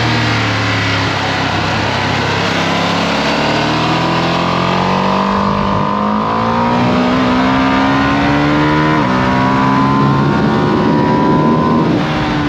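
Ducati Panigale V2S's V-twin engine on its stock exhaust, accelerating hard under load. Its pitch climbs steadily, drops sharply with a quick upshift about nine seconds in, then climbs again. Near the end it falls away as the throttle closes.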